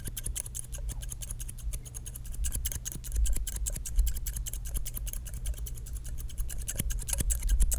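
Scissors snipping rapidly close to the microphone in a run of quick, crisp clicks, as in an ASMR haircut.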